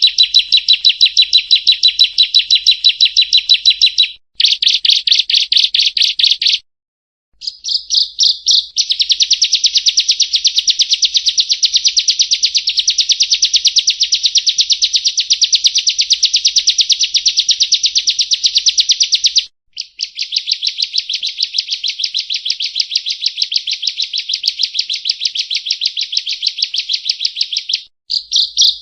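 Bar-winged prinia (ciblek kristal) singing long runs of rapid, repeated high chirping notes. The runs break off briefly about 4, 7, 20 and 28 seconds in.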